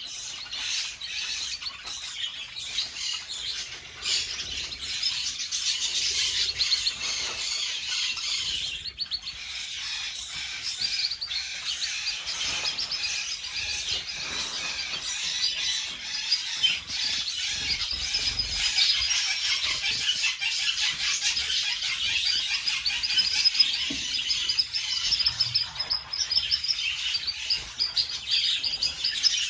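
Domestic canaries chirping and singing continuously, a dense run of high, rapid trills and tweets from several birds.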